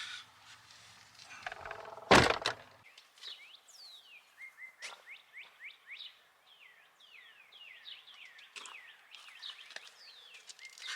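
A single loud thunk about two seconds in, then birds chirping outdoors, many short notes that fall quickly in pitch.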